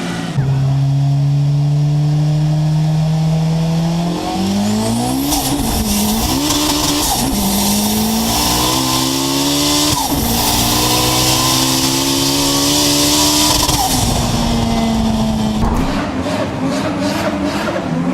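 A performance car engine runs hard at steady high revs, then rises and drops back several times as it shifts, with a high hissing tyre squeal over it for much of the middle. About sixteen seconds in, the sound changes to a rapid run of exhaust pops.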